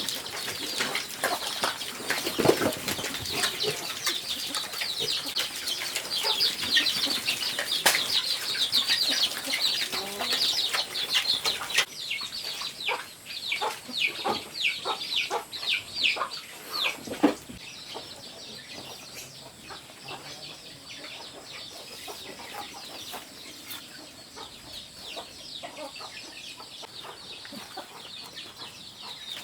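Chickens clucking and calling, a dense overlapping chorus for the first twelve seconds or so, then sparser single calls until about seventeen seconds in, after which it goes quieter.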